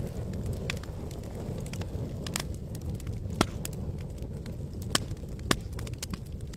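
Campfire wood burning and crackling, with irregular sharp pops, a few louder snaps in the second half, over a steady low rumble.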